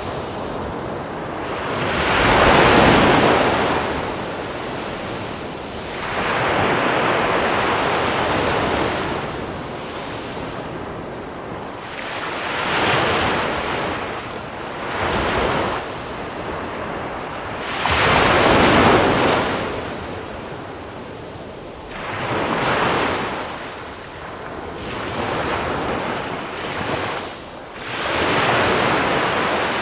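Sea waves rolling onto a small-pebble shore: each wave rushes in and drains back in a swell of noise that rises and fades, one after another every four to six seconds. The strongest surges come about three seconds in and again a little past halfway.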